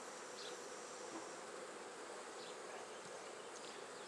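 Honey bees humming steadily around an open hive.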